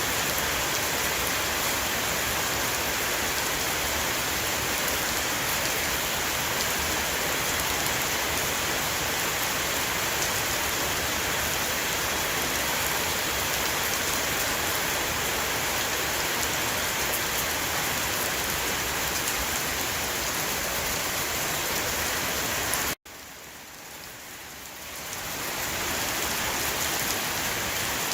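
Heavy rain shower falling on a roof, a steady dense hiss of rain. About 23 s in it cuts out abruptly and fades back in over a couple of seconds.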